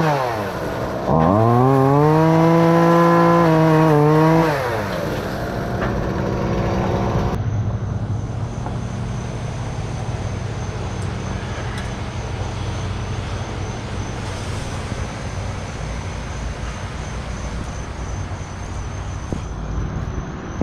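Two-stroke chainsaw revving. A rev dies away at the start, then about a second in the saw is run up to full throttle and held for about three seconds before dropping back to idle. After a sudden cut about seven seconds in, a steady low engine hum follows.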